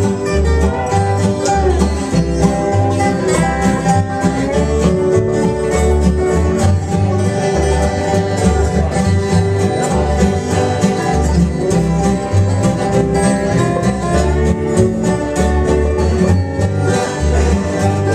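Bluegrass band playing an instrumental break: fast banjo picking and guitar over a steady alternating bass line.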